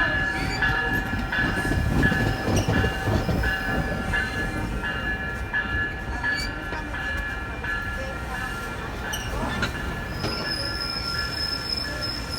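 Passing train rumbling on the rails, with a ringing tone that pulses about one and a half times a second. A thin high squeal joins near the end.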